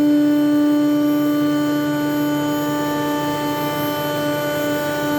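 ShopSabre Pro 408 CNC router's spindle running at a steady whine as its bit cuts through half-inch StarBoard HDPE sheet, throwing chips.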